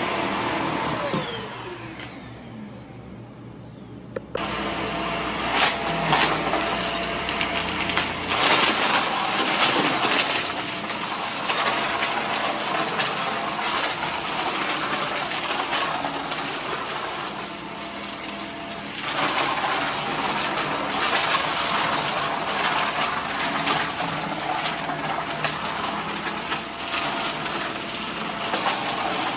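Vacuum cleaner motor switched off and winding down, its pitch falling, then switched back on abruptly about four seconds in. It then runs steadily while sucking up scattered debris, with rapid clicking and rattling of bits hitting the inside of the hose and nozzle.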